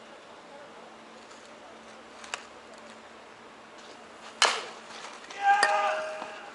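A single sharp smack of a baseball, the loudest sound, about four and a half seconds in, followed about a second later by a high shout.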